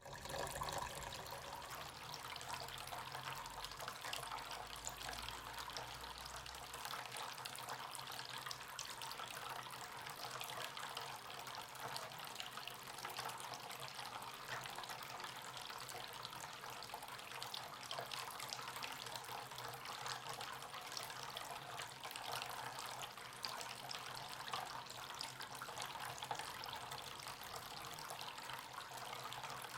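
Faint, steady trickle of water running in a small homemade cement-and-Styrofoam tabletop fountain.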